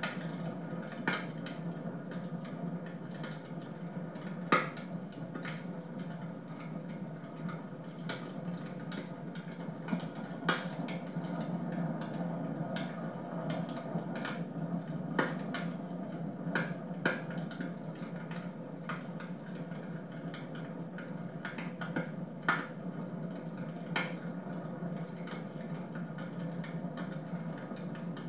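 Wood fire burning in a fireplace: a steady low rush of the flames with irregular crackles and sharp pops, the loudest a little over four seconds in.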